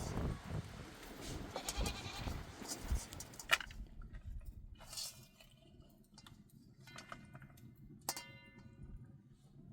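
Goats bleating: a call about two seconds in and another, clear and pitched, about eight seconds in. A sharp knock about three and a half seconds in, with busier rustling in the first half.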